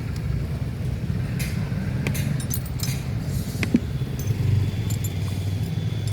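Scattered light metallic clinks of tools and engine parts being handled, the clearest a little under four seconds in, over a steady low rumble.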